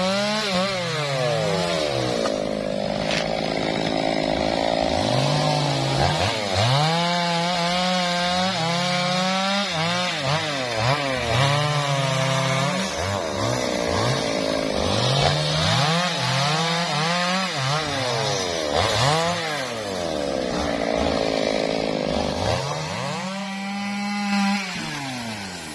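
Chainsaw cutting teak wood, the engine pitch repeatedly dropping and climbing again as the chain bites into the wood and frees up.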